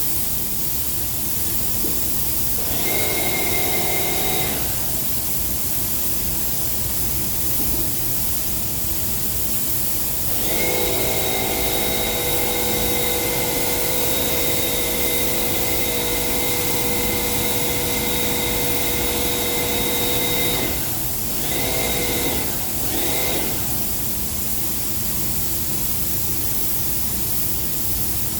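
Spray-painting equipment applying silver-mirror paint: a steady hiss, with a machine whine that comes on for about two seconds near the start, runs for about ten seconds in the middle, then sounds twice more briefly.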